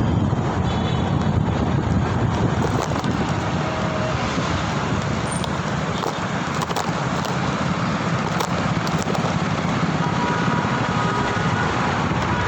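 Steady rush of wind and road traffic noise heard from a moving ride, with faint short tones near the end.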